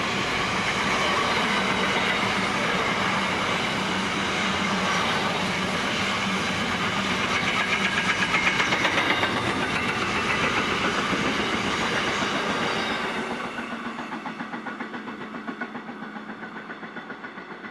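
Container wagons of a long freight train rolling past, a steady loud rumble of wheels on rail with rhythmic clickety-clack. About 13 s in the last wagon passes and the sound drops to a quieter, receding wheel clatter.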